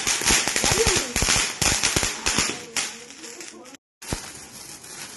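A string of firecrackers going off: a rapid, irregular crackle of sharp pops lasting about three and a half seconds, then stopping abruptly. A single pop follows a moment later.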